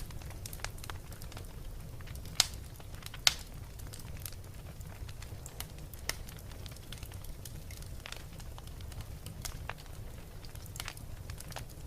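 Wood fire crackling, with scattered sharp pops over a steady low rumble, two of them louder about two and a half and three and a half seconds in.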